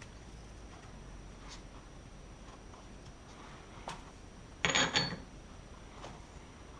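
Metal coilover parts being handled and fitted together: a few light clicks, then a brief metallic clatter of two quick knocks about five seconds in.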